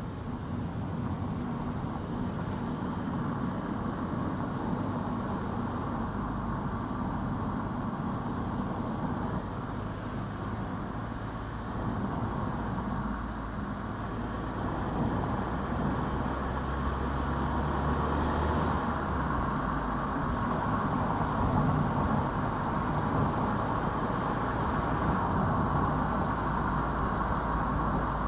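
A car driving along a road: a steady low engine hum under tyre and road noise, getting a little louder about halfway through.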